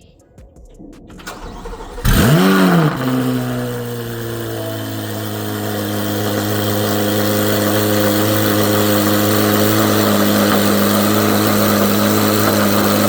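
2024 Corvette C8 Z06's 5.5-litre flat-plane-crank V8 cold-starting through freshly fitted cat-delete pipes with the exhaust valves closed: it catches about two seconds in, flares up in revs and drops back, then settles into a steady, high cold idle.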